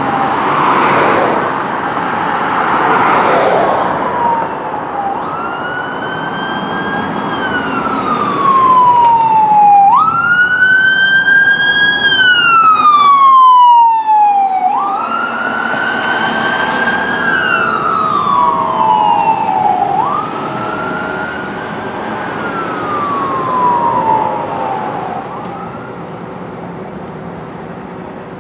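Fire engine's electronic siren on wail, in four slow cycles: each jumps up in pitch, holds, then slides down over a few seconds. A loud rushing noise fills the first few seconds, and the siren stops near the end.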